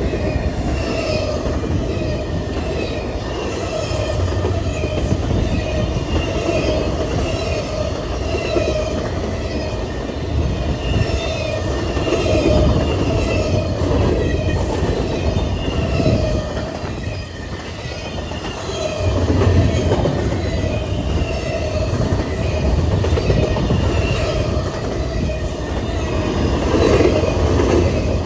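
BNSF freight train rolling past, a steady sound of wheels on rail with a light clicking that repeats about once a second.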